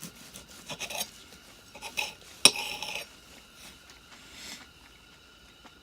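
Eating utensils clinking and scraping against camping cookware: several light clicks, then one sharp clink about two and a half seconds in that rings briefly before things go quieter.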